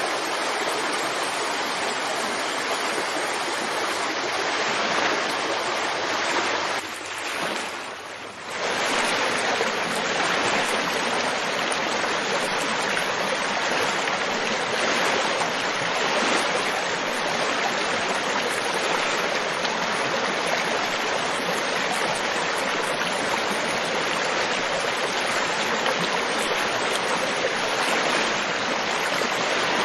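River water flowing and splashing over rocks in a steady rush, dipping briefly about seven seconds in before picking up again.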